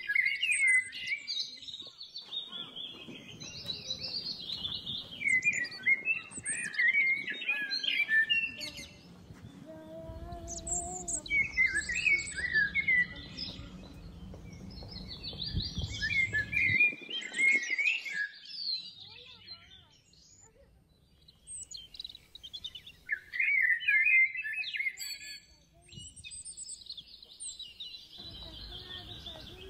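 Small birds chirping and calling in bursts of quick, high notes, with short pauses between the bursts. A low background rumble swells under the birdsong in the middle.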